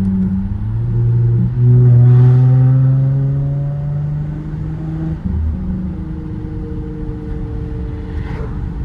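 Car engine heard from inside the cabin with the windows down. It revs up sharply about a second and a half in, then eases off, its note falling over a few seconds before settling steady and lower.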